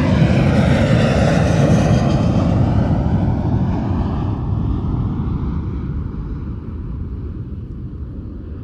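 Airplane engine noise from a passing aircraft: a steady roar, loudest at the start, fading gradually as it moves away.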